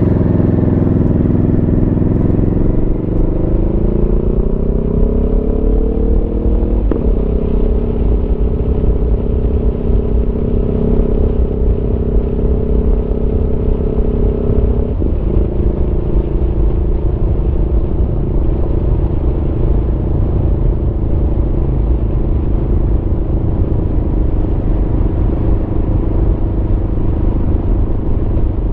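Aprilia Tuono V4's V4 engine under way. It rises in pitch while accelerating over the first few seconds, shifts gear with a sudden step about seven seconds in, and holds a steady pitch. It drops in pitch again at a second upshift about halfway through, then cruises steadily over a low rush of wind and road noise.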